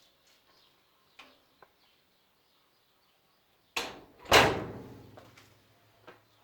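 A sharp click, then about half a second later a louder bang that rings briefly and fades, like a door knocking shut.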